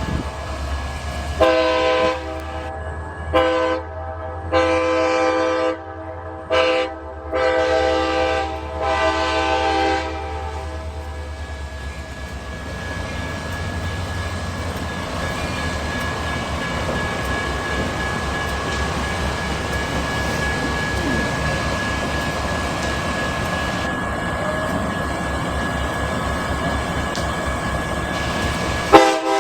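Diesel locomotive horn sounding a series of blasts, short and long, over a low engine rumble. Then the train rolls past in a steady rumble of wheels on rail, ending in a sharp click and a sudden cut near the end.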